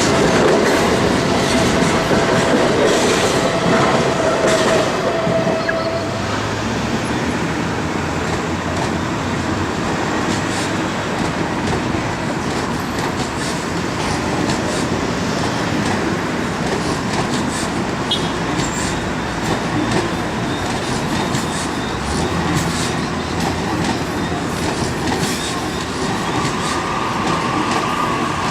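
A train running past, its wheels clattering over the rail joints, with a steady high wheel squeal at the start and another near the end.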